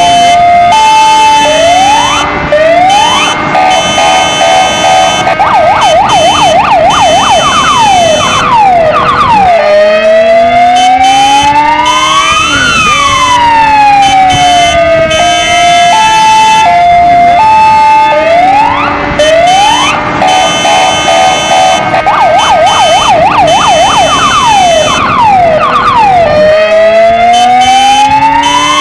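Kingvox ERP electronic siren cycling through its tones: a stepped two-tone, short rising wails, a fast yelp, then a slow wail that rises and falls, the whole cycle repeating about every 16 seconds. A lower steady tone runs underneath, the motorcycle sound mixed in with it.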